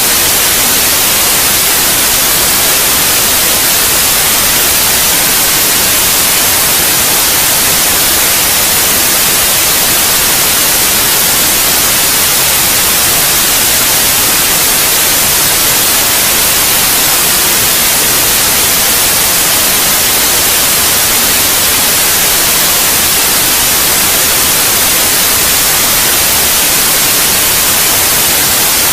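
Steady, loud white noise: an even, unbroken hiss, brightest in the high frequencies.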